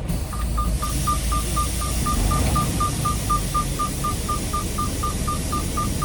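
Rapid, steady beeping at about five beeps a second from a semi-truck's in-cab messaging unit, signalling a new dispatch message, over the low running of the truck's engine and a steady hiss.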